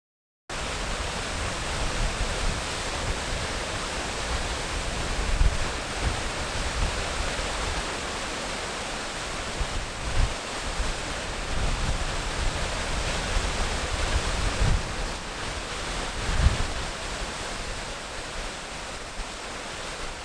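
Waterfall rushing: a steady, full noise of falling water with uneven low thumps and swells underneath. It cuts in abruptly about half a second in.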